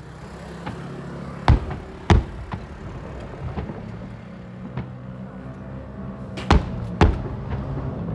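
Fireworks shells bursting: four loud booms in two pairs about half a second apart, about a second and a half in and again near the end, with fainter pops between, over a steady low hum.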